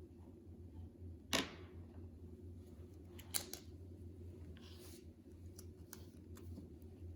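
Slime being handled: a sharp click or pop about a second in, then two quicker clicks a couple of seconds later and a brief soft rustle, over a steady low hum.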